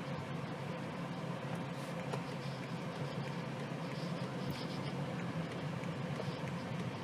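Steady low hum of a BMW 218i Gran Coupe heard from inside the cabin, engine and road noise running evenly with no change in pitch.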